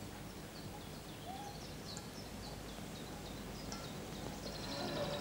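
Faint, scattered chirps of small birds over low steady background noise.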